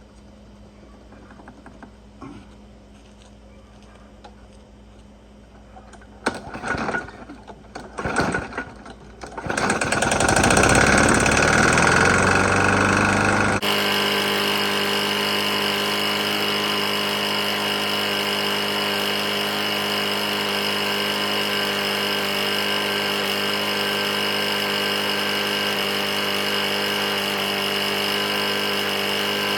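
Lawn mower's Briggs & Stratton E450 single-cylinder engine being pull-started after a refuel: a few pulls about six seconds in, catching near nine seconds and revving up, then running steadily. The engine has a bad knock, which the owner puts down to running with very little oil.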